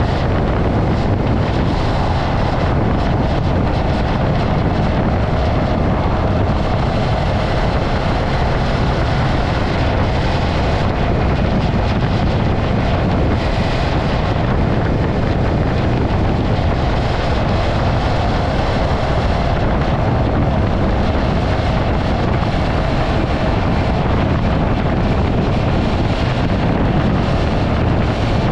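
Steady wind rush on the microphone over a motorcycle running at riding speed, with no breaks or sudden sounds.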